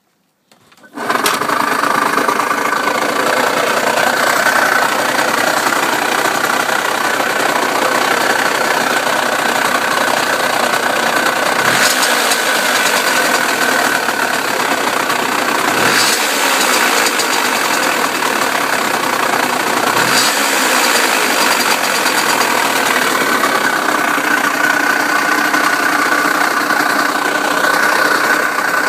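Derbi 50cc two-stroke motorcycle engine, fitted with a Conti CHR 50 kit, running steadily with three brief dips partway through. Its odd air or blowing noise is the fault under investigation, which the owner does not take for worn crankshaft bearings.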